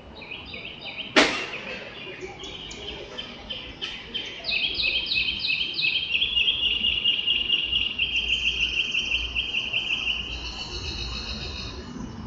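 Small birds singing and calling in rapid repeated chirps and trills, several overlapping, with one sharp click about a second in.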